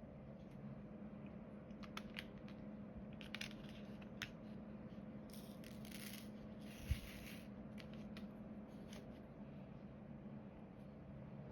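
Diamond painting work: scattered light clicks and taps of small plastic pieces, with two short rustling stretches in the middle and a soft thump about seven seconds in.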